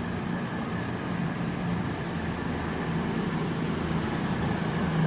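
Cross Country Class 221 Super Voyager diesel multiple unit running under diesel power as it departs. Its engines give a steady low drone.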